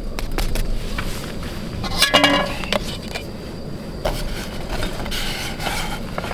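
A metal spatula scraping and clinking against a camp cooking pan, with a ringing clatter of metal on metal about two seconds in.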